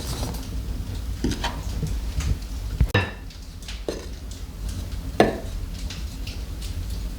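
Several sharp knocks and clinks of hard objects being handled, four of them louder with a brief ring, over a low steady hum.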